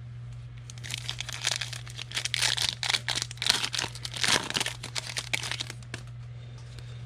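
A foil trading-card pack being torn open and crinkled: a dense run of crackling from about a second in until about six seconds, over a steady low hum.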